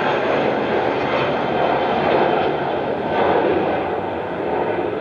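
Jet airliner's engines at takeoff power as the plane takes off, a loud steady roar that eases slightly near the end.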